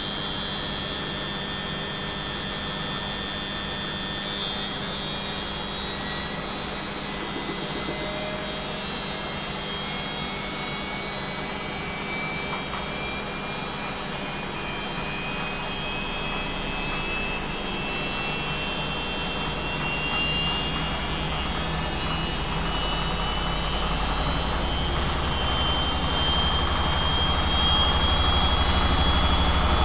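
Washing machine spinning up: a motor whine climbs steadily in pitch as the drum gains speed. A low rumble builds over the last third, and the sound grows louder toward the end.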